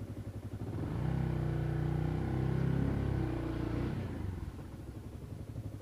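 Motorcycle engine running, a steady low drone that swells louder about a second in and fades away after about four seconds.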